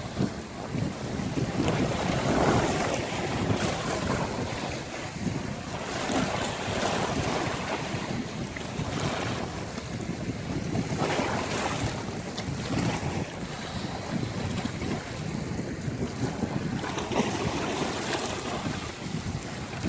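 Sea waves breaking and washing on a beach in a steady wash of surf, swelling every few seconds, with wind buffeting the microphone.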